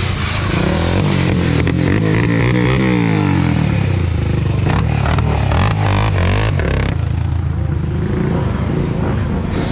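Car engines running loud, with the pitch rising and falling a few times as the throttle is blipped. Typical of the V8 exhaust of Dodge Charger Scat Packs and Hellcats.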